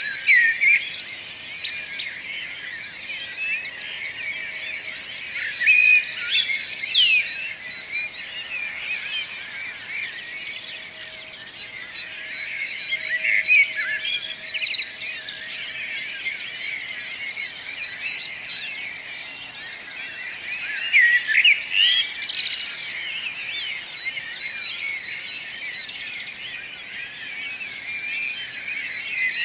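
Morning chorus of many songbirds singing at once, a dense mix of chirps and trills. A few louder calls stand out above the rest, among them a sharp downward-sweeping call about seven seconds in.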